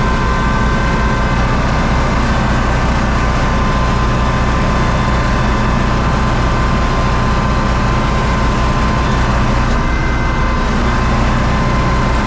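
U650 tractor's diesel engine running steadily, heard close, with a thin steady whine over the engine note.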